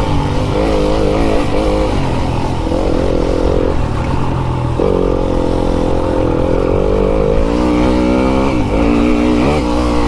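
Fantic enduro dirt bike engine running hard round a motocross track, revs rising and falling with the throttle. The pitch jumps abruptly a couple of times midway and dips then climbs again near the end.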